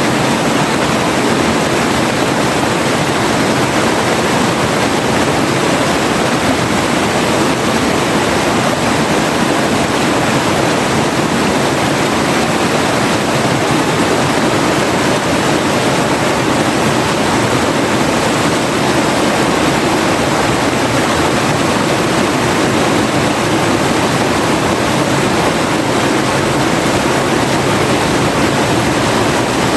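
Forest river flowing, a steady, unbroken rush of water.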